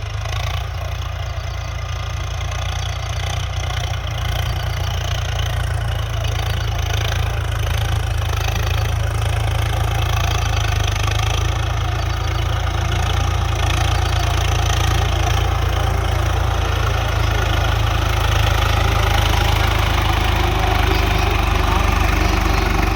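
Swaraj 744 tractor's three-cylinder diesel engine running steadily, growing gradually louder.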